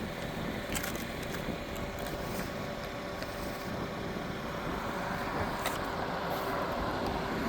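Steady road traffic noise, swelling as a vehicle passes in the second half.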